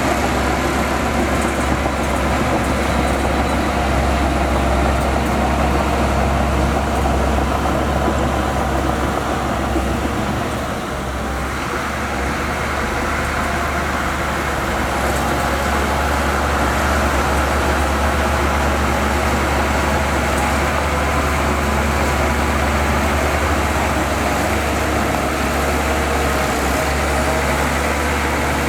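Diesel engine of heavy earthmoving machinery running steadily under work, with a broad mechanical din over a deep engine drone; it eases briefly about ten seconds in.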